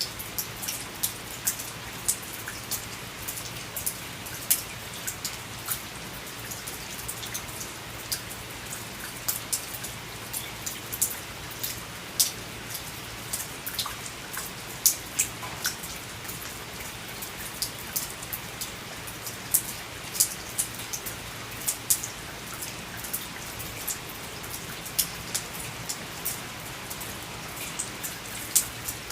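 Rain falling steadily, a continuous hiss with many sharp, irregular drop impacts close by.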